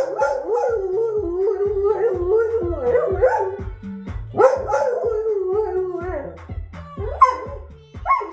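A dog howling along to music: long wavering howls that slide up and down in pitch, over music with a steady low beat.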